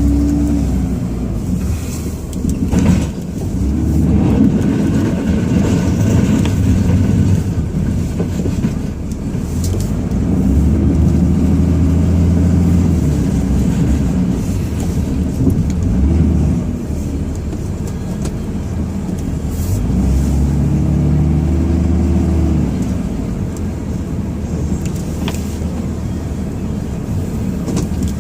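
Ram 2500 pickup's diesel engine heard from inside the cab, revving up and easing off several times in long pulls as the truck works back and forth plowing snow.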